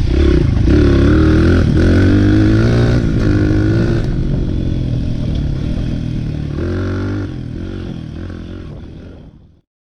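Dirt bike engine revving and running, its pitch rising and falling with the throttle. It grows steadily fainter over the second half, then cuts off to silence near the end.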